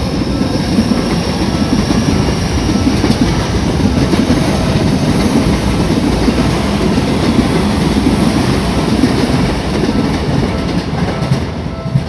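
Electric commuter train passing close over a level crossing, its wheels running and clattering on the rails. Under it the crossing's warning bell rings in short, repeating tones, which stand out near the end as the train noise eases off.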